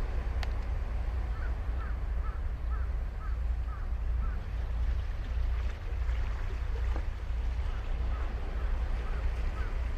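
Ocean surf washing on a sandy beach with a heavy low rumble, while a bird calls in a run of short quick notes from about a second in and again near the end.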